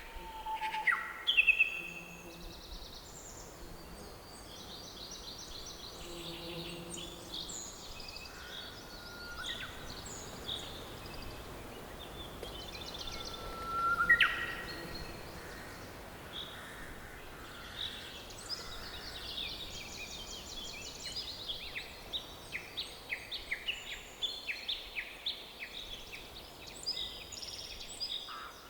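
Several songbirds calling and singing over a faint steady background hiss. Two louder calls stand out, one about a second and a half in and one about fourteen seconds in, and a quick run of repeated chirps fills the last ten seconds.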